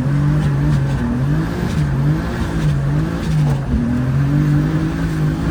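Turbocharged BMW E30's engine revving, its pitch rising and falling over and over as the throttle is worked on and off.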